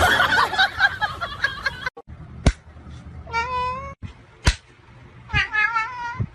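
A domestic cat meowing twice, a short call about halfway through and another near the end, with a sharp click before each. A busy jumble of noise fills the first two seconds.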